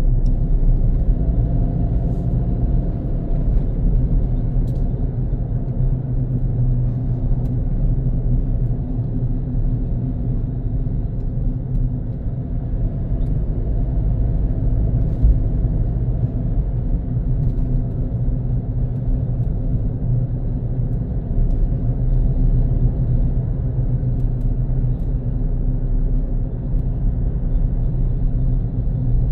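Car driving at steady speed: a continuous low rumble of engine and road noise with no marked changes.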